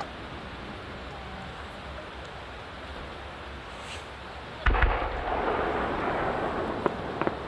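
Fireworks going off: after a quiet stretch, a shell bursts with a sudden deep boom about two-thirds of the way in, followed by a long crackling hiss and a few sharp pops near the end.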